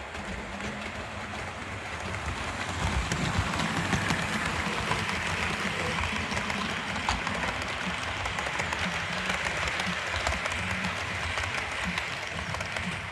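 Model Southern Region Booster electric locomotive hauling coaches along the track: a steady running rumble with scattered clicks from the wheels on the rails. It grows louder about three seconds in and then holds steady.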